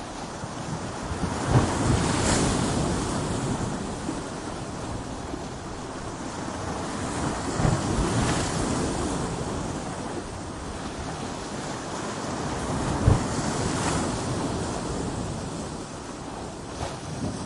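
Ocean surf breaking against coastal rocks: a continuous rushing roar that swells with each wave about every six seconds, three times, with a sharp low thud as a wave strikes the rocks near the start and again about two-thirds of the way through.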